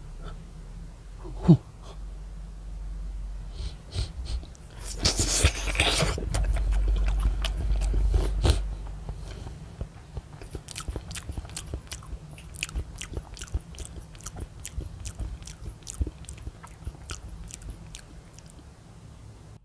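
Close-up eating sounds of an Earth-shaped gummy jelly being bitten and chewed: a sharp bite click about a second and a half in, a louder wet burst around five seconds in, then a long run of small wet chewing clicks.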